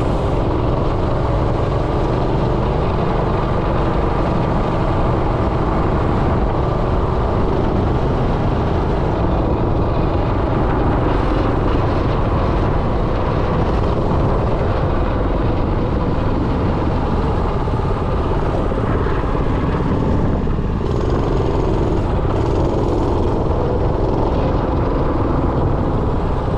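Predator 212 single-cylinder four-stroke engine on a minibike running while the bike is ridden, its pitch rising and falling a little with the throttle over a heavy low rumble.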